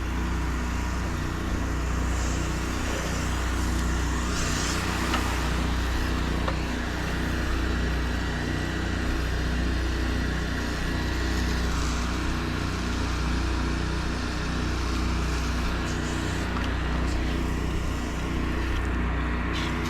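Pressure washer engine running steadily under a continuous hiss of high-pressure spray from a wand fitted with a sand-spray attachment.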